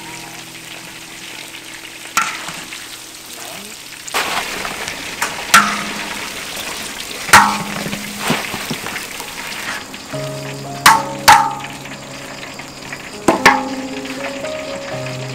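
Food sizzling as it fries in a pan, growing louder about four seconds in, with several sharp knocks of a utensil against the pan as it is stirred.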